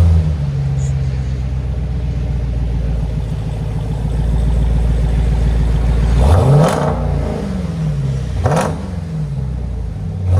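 Jeep Trackhawk's supercharged 6.2-litre V8 through a Solo Performance cat-back exhaust with resonators: it fires up with a flare, settles into a steady fast idle, then is revved once about six seconds in and blipped briefly near the end.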